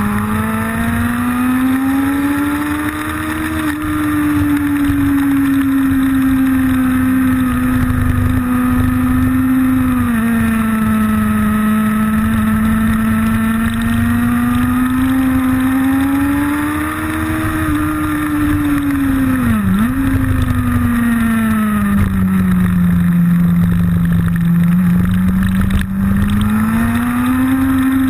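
Motorcycle engine heard onboard at speed, its pitch rising and falling smoothly as it accelerates and slows through the corners, with one sharp brief dip in revs about twenty seconds in.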